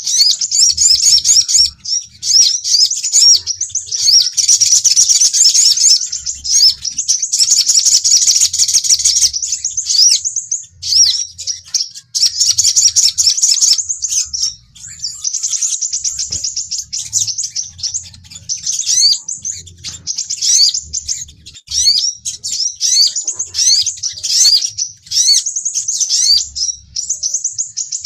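Fast, high-pitched twittering and chirping of sunbirds, the sogon and sepah raja (crimson sunbird) lure call used to draw in and provoke other birds. It comes in dense strings of quick rising notes with short breaks.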